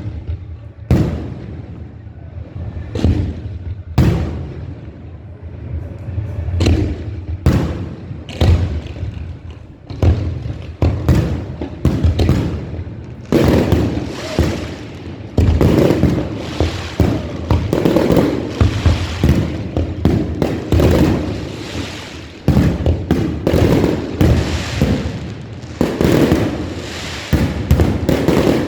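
Fireworks show: shells bursting in a run of loud booms, about one a second at first. About halfway through they thicken into near-continuous bangs with a steady crackle.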